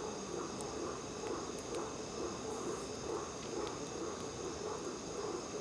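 Steady night chorus of frogs and insects: a constant high trilling over an evenly pulsing lower chorus. A few faint sharp crackles come from the campfire.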